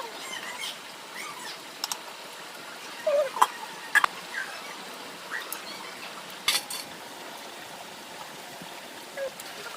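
Metal utensils knocking and scraping against a cooking pot, a few sharp clinks spread through, over a steady hiss, with a few short chirps.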